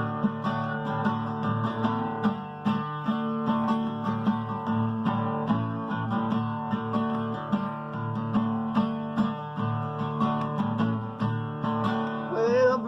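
Acoustic guitar strumming a folk song's chords in an instrumental break between verses.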